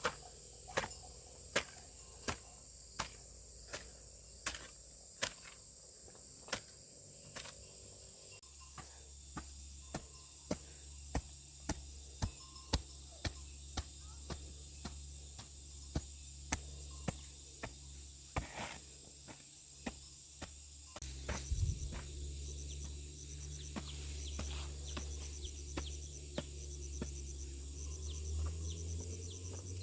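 Steady, even hammering, one sharp knock about every 0.7 seconds, stopping about two-thirds of the way through. Crickets or other insects keep up a steady high drone underneath, and a low hum comes in after the knocking stops.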